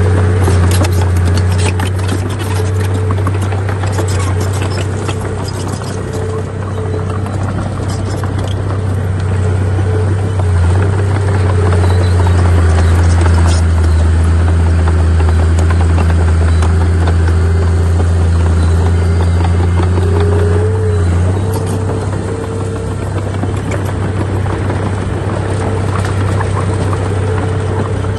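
Heavy diesel earthmoving machinery, a bulldozer at work, running steadily with a deep engine drone, with scattered clicks and rattles throughout.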